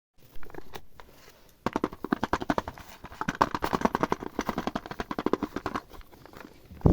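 Slime being squeezed and stretched by hand, giving a quick run of sticky clicks and pops, several a second, that stops near the end.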